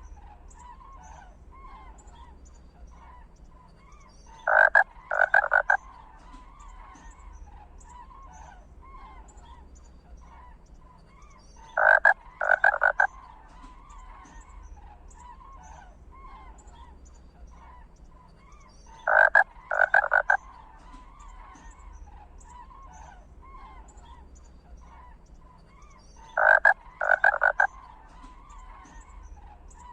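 Animal calls, loud croaking pairs of short rattling bursts, repeating evenly about every seven seconds over a steady chorus of faint chirps.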